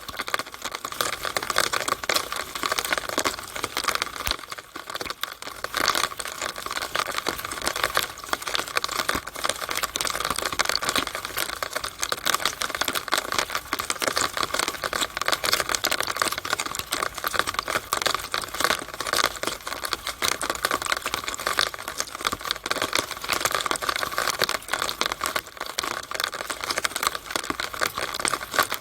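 Rainwater coming down a downspout: a dense, irregular patter of drops and splashes.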